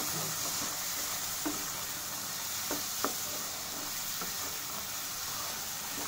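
Green peas and spice masala sizzling steadily in a frying pan while a wooden spatula stirs them, with a few light knocks of the spatula against the pan.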